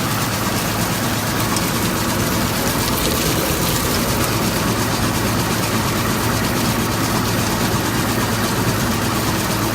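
A machine running steadily: an unchanging hum under a constant wash of noise.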